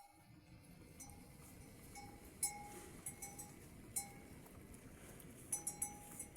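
Small metal bell clanking irregularly, about once a second, each strike a short ringing note. Under it is a faint, steady hiss of rain.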